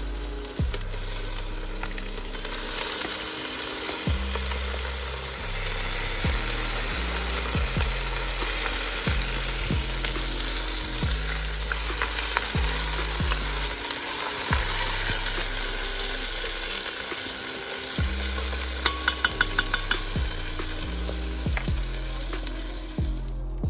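Rabbit meat and onions sizzling in hot oil in a cast iron pot over a charcoal fire, the sizzle growing louder a couple of seconds in as the meat goes in, while a wooden spoon stirs them. Background music's bass line runs underneath, and a quick run of sharp ticks comes near the end.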